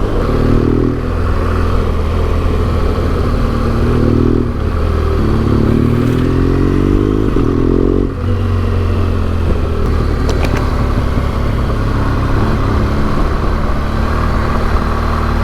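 BMW R1200GS boxer-twin engine with an SC Project exhaust pulling under acceleration: its pitch climbs several times over the first eight seconds, drops at about eight seconds, then holds steady at cruise.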